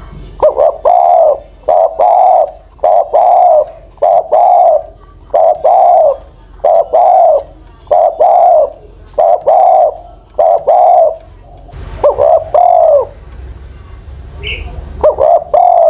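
Old captive spotted dove, a decoy bird, cooing loudly in a long run of short, evenly repeated coos, about one to two a second. The coos break off briefly after about eleven seconds, then a few more follow.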